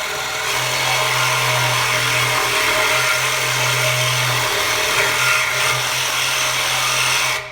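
Power tool cutting through the Mustang's factory exhaust pipe to take the stock muffler off, running steadily under load and stopping near the end.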